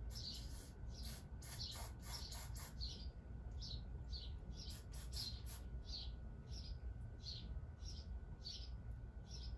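A small bird chirping over and over, about twice a second. Short spurts of hissing from an aerosol can of brake cleaner come in quick succession in the first three seconds and again about five seconds in.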